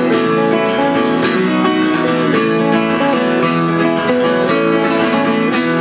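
Guitars playing an instrumental country-folk passage between verses, with a run of quick picked notes over held chords.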